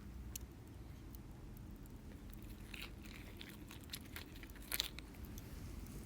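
Faint bites and chewing of something crisp: a few scattered crunches, with the sharpest crunch just under five seconds in.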